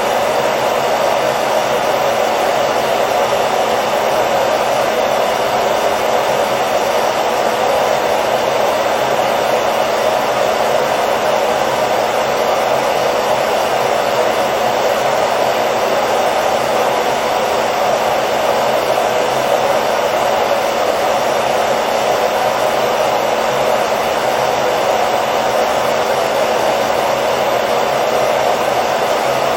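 Hair dryer running steadily: an even, unchanging blowing whoosh with a faint motor hum.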